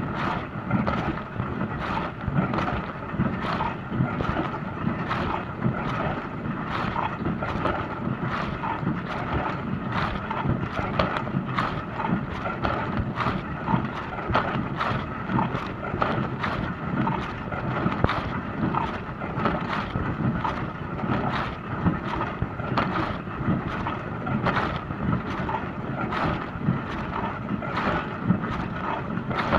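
Dishwasher running its wash cycle: a steady rush of water spraying inside the tub, with frequent irregular splashes against the dishes and walls.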